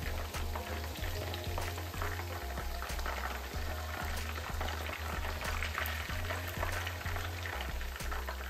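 Flour-battered chicken pieces deep-frying in vegetable oil in a pan, a steady crackling sizzle. A spoon clicks now and then against the pan and the pieces as they are moved.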